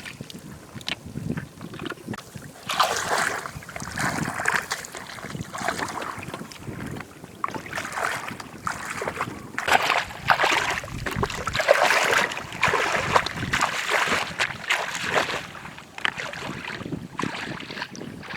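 Shallow floodwater splashing and sloshing in irregular surges, as someone wades and reaches into it.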